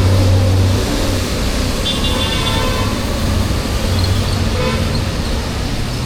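Road traffic running close by, with engines idling and moving, and a short vehicle horn toot about two seconds in.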